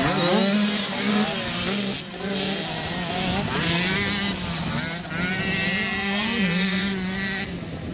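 Several motocross bikes racing, their engines revving up and down with overlapping pitches that rise and fall as they pass.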